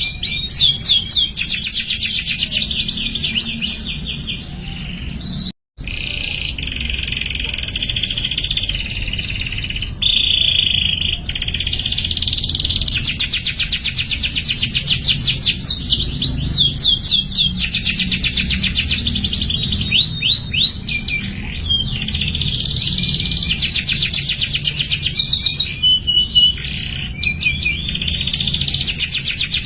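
Domestic canary singing: fast rolling trills of rapidly repeated notes, alternating with steadier warbled phrases. The song cuts out for a split second about five and a half seconds in.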